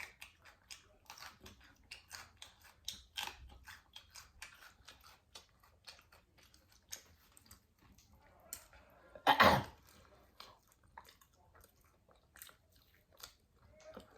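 Close-miked eating: chewing with many short, wet mouth clicks and lip smacks. About nine and a half seconds in there is one louder, longer sound.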